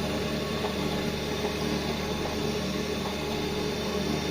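Circular sawblade grinding machine running steadily: a constant motor hum with several steady tones.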